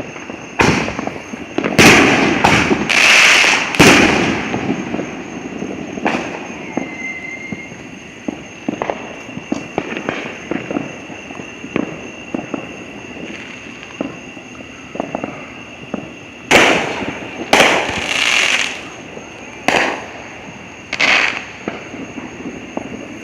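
Fireworks going off. A cluster of loud bangs comes in the first few seconds, then scattered small pops and crackles, then another run of loud bangs near the end.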